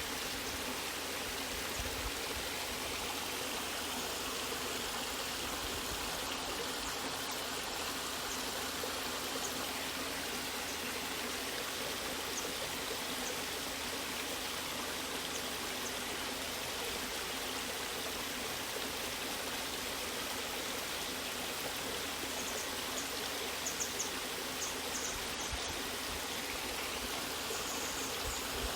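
Steady rushing of falling and running water from a waterfall and stream, an even wash with faint splashes near the end.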